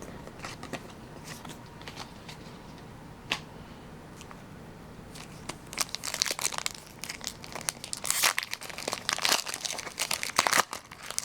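Foil wrapper of a Pokémon booster pack being crinkled and torn open, with light clicks of cards being handled at first and the loudest crinkling from about six seconds in.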